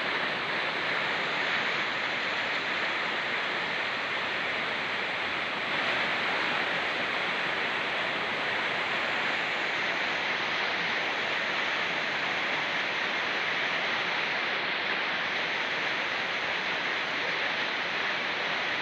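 Steady rush of rain falling in forest together with a fast-flowing mountain stream, an even unbroken hiss of water.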